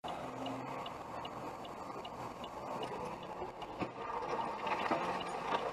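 Steady road and engine noise heard inside a moving car, with a light, regular ticking about three times a second.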